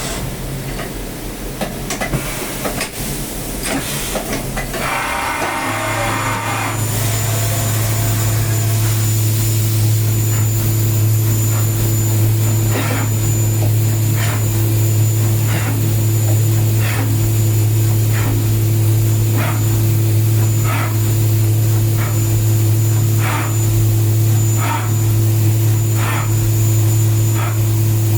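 CNC milling machine running, with a steady low hum and hiss that settle in about six seconds in. From about halfway on, short sharp sounds come at a regular pace of about one a second.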